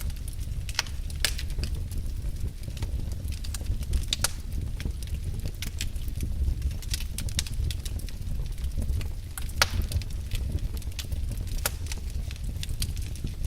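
Wood fire in a fireplace crackling: irregular sharp pops and snaps over a steady low rumble of the burning fire, with a few louder pops standing out.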